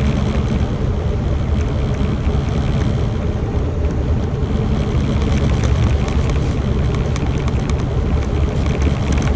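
Semi truck driving at road speed: a steady, even rumble of engine and tyre noise.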